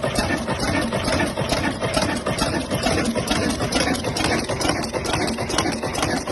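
Old Ruston engine running steadily at idle, with a rapid, even firing beat.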